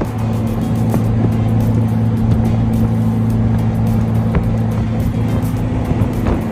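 A jet boat's 496 big-block V8 engine running at a steady pitch, with music playing alongside.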